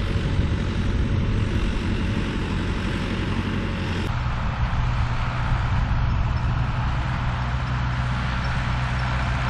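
Tractor engine running steadily, with an abrupt change in its sound about four seconds in.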